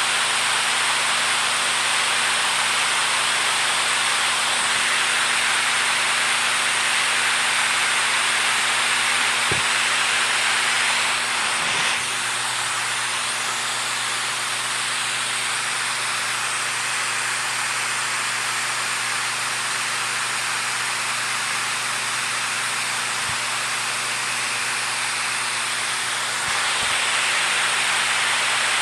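Flowing water rushing steadily, an even roar with no distinct splashes. It drops slightly in level about twelve seconds in and rises again near the end.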